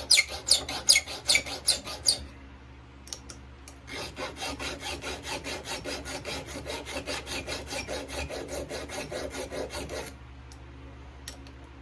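Hand file rasping across the depth gauges (rakers) of a chainsaw chain in quick, regular strokes, about three a second for the first two seconds. After a short pause comes a longer run of lighter, faster strokes from about four seconds in until near ten seconds, then only a few faint clicks.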